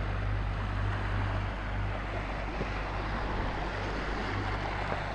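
Steady low hum of a passing motorboat mixed with wind and moving water.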